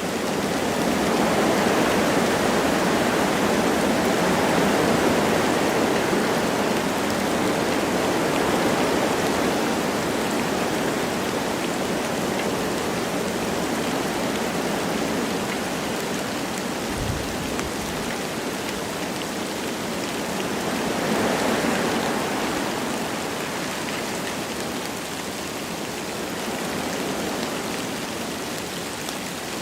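Wind blowing through forest trees with light rain falling: a steady rushing hiss that swells louder in gusts, once for several seconds early on and again about two-thirds through. A brief low thump comes a little past the middle.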